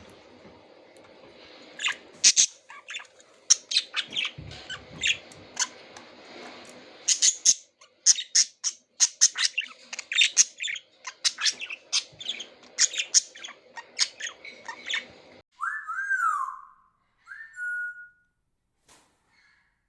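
Pet budgerigars chirping rapidly in a dense run of short sharp calls. About three-quarters through the background drops away suddenly and a few clear, rising-and-falling whistled calls follow.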